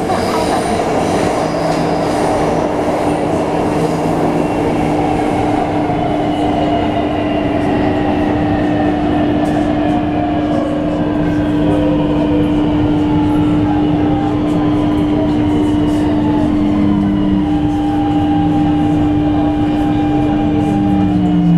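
Passenger train running on the rails, loud and steady, with a constant hum and several whining tones that slowly fall in pitch, then short tones rising again near the end.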